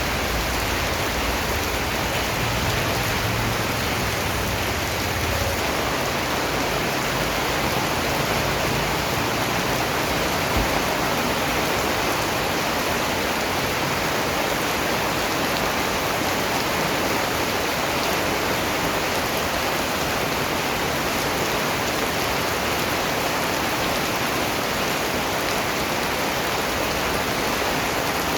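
Steady rain falling, a dense, even hiss of countless drops with no let-up.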